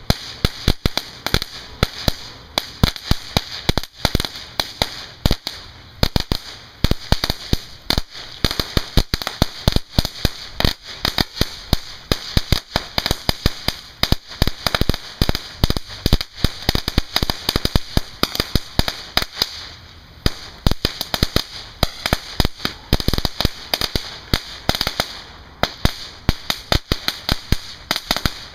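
Big Fireworks 'Big Bangers' firecracker crackling: a long, dense run of rapid, irregular small pops with a steady sizzle, thinning briefly about two-thirds through. It crackles on rather than giving a single loud report.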